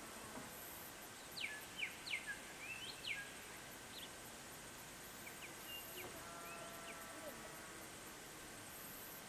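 A songbird gives a quick run of short, sharp, sweeping chirps between about one and three seconds in, then a few scattered notes. Underneath is a faint, even, high-pitched ticking and hiss.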